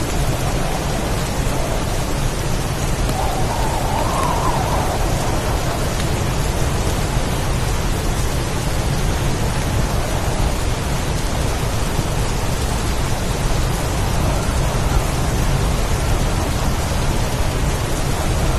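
Heavy rain pouring steadily in a storm, with a constant low rumble underneath.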